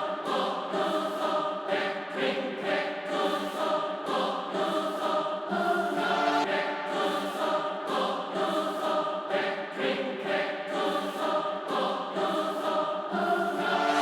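Choral music: several voices singing together with no drums or bass beat.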